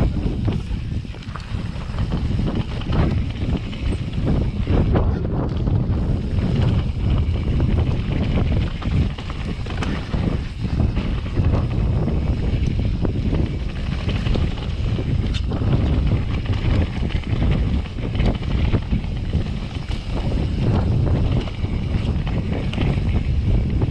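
Wind rushing over the camera microphone while a mountain bike rides a rough dirt trail, with frequent knocks and rattles from the bike.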